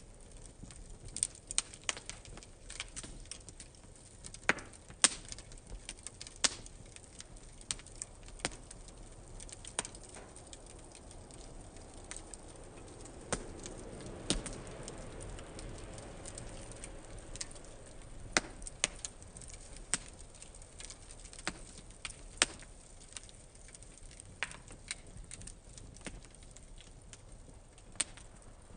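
Wood and newspaper fire burning in a fire-pit stand, crackling with irregular sharp pops, and a soft rush of flame swelling up midway.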